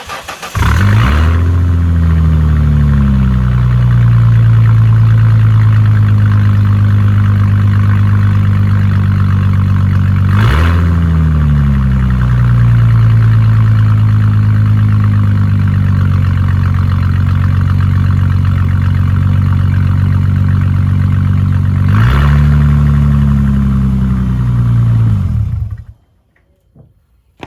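2000 Ford Mustang's 3.8 L V6 starting from cold, with the exhaust turned down at the mid-pipe after the factory catalytic converters. It catches about half a second in, flares and settles to a steady fast idle. The revs jump and fall back twice more, at about 10 and 22 seconds in, and the engine stops near the end.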